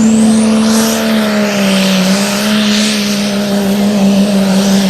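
Pulling truck's engine running at high, steady revs under full load, its pitch sagging slightly about two seconds in, with a thin high whine climbing during the first second and then holding.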